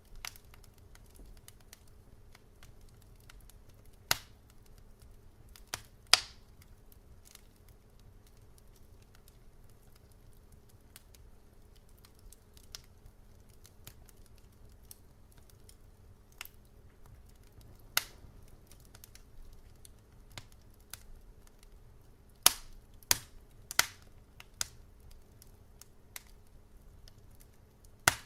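Wood fire crackling in a fireplace: scattered sharp pops and snaps of burning logs, a few louder ones spread through and a quick cluster of several about two thirds of the way in, over a faint steady low hum.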